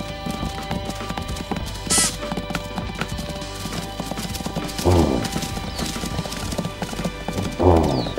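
Two short animal calls, each falling in pitch, about five and seven and a half seconds in, over background music with a clopping rhythm, plus a sharp burst of noise about two seconds in.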